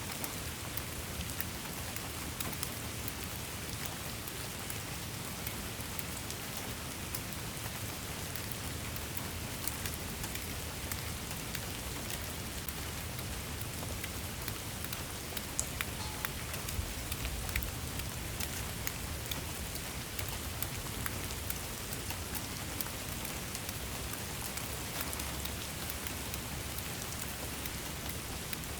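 Steady rain falling on a surface, an even hiss with many individual drops ticking throughout.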